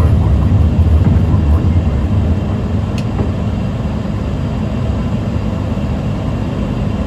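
Airbus A330 flight-deck noise during the takeoff: a steady low rumble of engines and airflow that eases slightly about two seconds in. A single click sounds about three seconds in.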